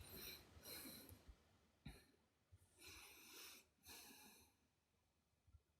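Near silence, with a few faint short breaths and one soft click.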